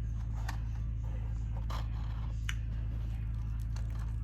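A steady low hum with a few faint, short clicks and scrapes over it, three of them spread through the first two and a half seconds.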